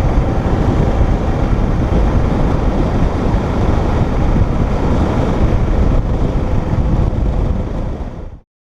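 Wind rushing over the microphone on a moving motorcycle, mixed with engine and road noise, steady and loud; it cuts off suddenly near the end.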